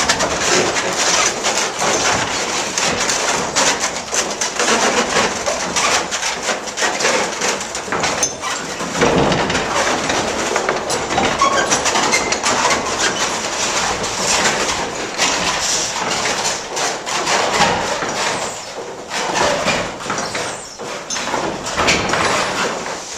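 Water-powered up-and-down sawmill running, its sash saw and wooden works making a dense, irregular clatter over a rushing hiss. The blade is running without cutting, the log carriage not advancing.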